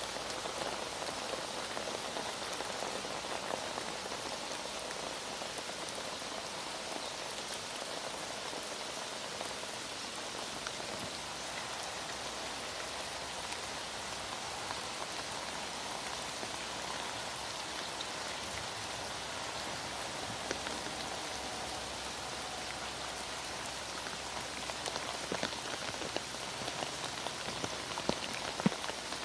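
Heavy rain falling steadily: a dense, even hiss of drops with scattered sharper drip ticks, one louder tick near the end.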